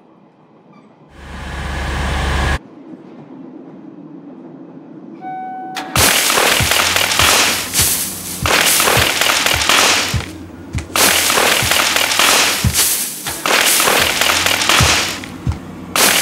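Experimental noise soundtrack: a short swelling burst of noise that cuts off sharply, then, about six seconds in, a loud, dense crackling wall of noise over regular low thuds, with a few brief drops.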